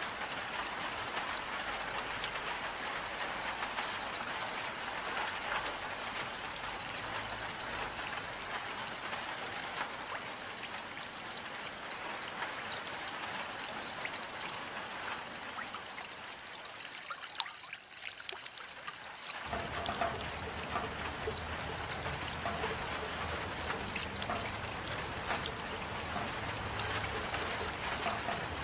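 Steady rain falling, a dense patter of drops. About two-thirds of the way through it briefly thins out, then resumes with a fuller, lower sound.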